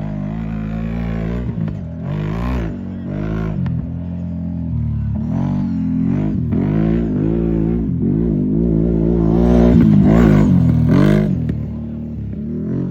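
Gen 2 CFMoto 1000's engine being run hard around a short dirt track, revving up and falling back again and again through the turns, loudest about ten seconds in.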